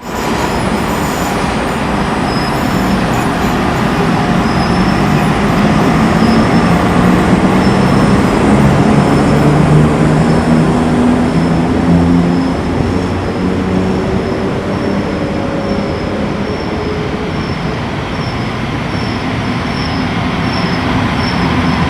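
E656 electric locomotives hauling a short train pulling out of a station: steady motor hum and wheel-on-rail running noise, growing louder to about halfway and then easing.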